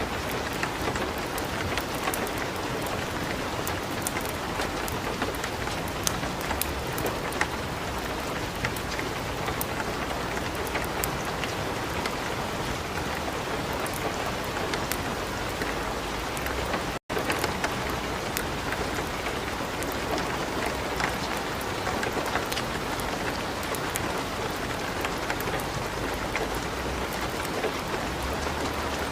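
Light rain falling steadily, mixed with the scattered crackles and pops of a wood fire burning in a fireplace. The sound cuts out for an instant about two-thirds of the way through.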